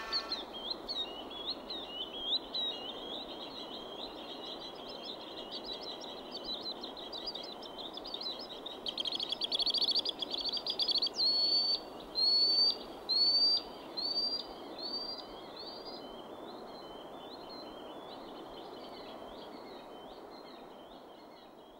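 Small birds singing: a string of quick chirps, a loud rapid trill about nine seconds in, then a series of clear whistled notes, each rising and falling, about one every 0.7 seconds. The song grows fainter near the end over a steady background hiss.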